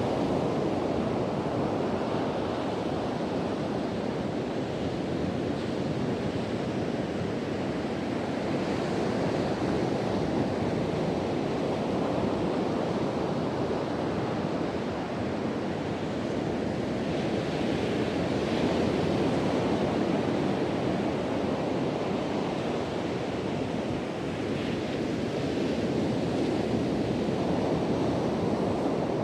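Sea waves breaking and washing on a beach, a continuous surf that swells and eases every several seconds, with wind blowing over the microphone.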